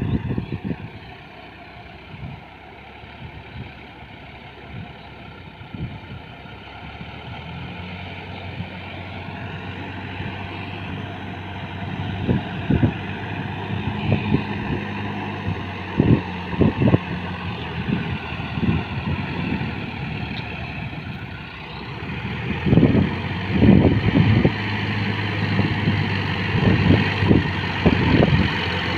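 Sonalika RX47 tractor's diesel engine running steadily while puddling a flooded field, growing louder as it comes closer. Irregular low thumps come through, thickest near the end.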